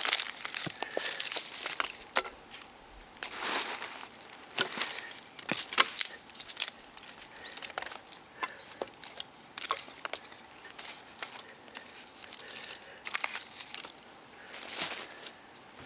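Dry leaves and small twigs crinkling and crackling as they are handled, with many irregular sharp snaps and short rustles.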